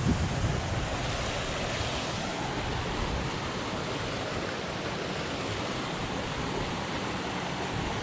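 Steady rushing of a waterfall's falling water, with a little wind buffeting the microphone at the very start.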